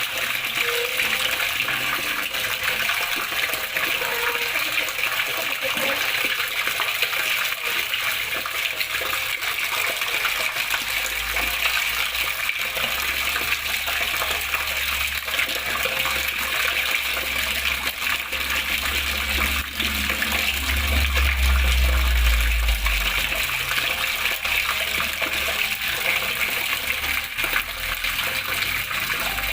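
Water flowing and splashing steadily, an even rushing hiss. A low rumble builds up in the middle and is strongest about two-thirds of the way through before it fades.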